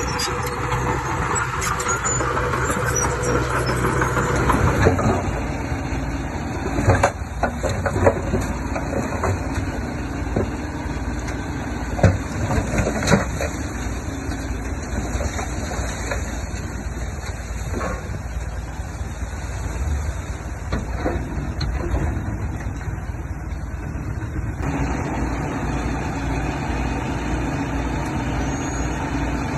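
Diesel engine of heavy earthmoving machinery running steadily, with a handful of sharp knocks a third of the way through and again near the middle.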